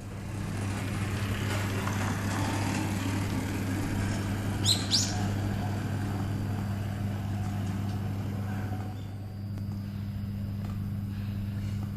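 A vehicle passing by, its noise swelling over the first few seconds and fading away, over a steady low hum. Two short rising bird chirps sound about five seconds in.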